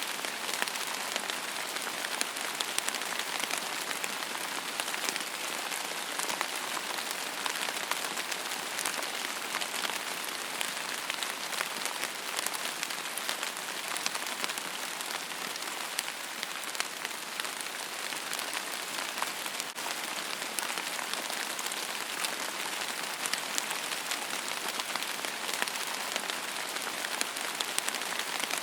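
Steady rain falling on a surface, a dense even hiss with many small individual drop ticks and no thunder.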